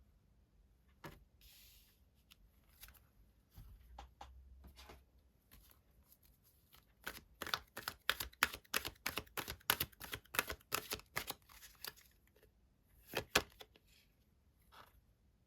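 Tarot cards being handled and shuffled. Scattered soft card taps and slides give way to a quick run of card clicks and snaps from about seven to twelve seconds in, with one more sharp snap shortly after.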